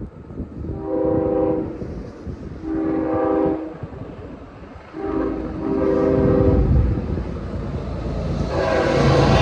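Approaching locomotive's multi-chime air horn sounding the grade-crossing pattern: two long blasts, a short one, then a long one. The train's rumble builds up under it, and the horn sounds again near the end.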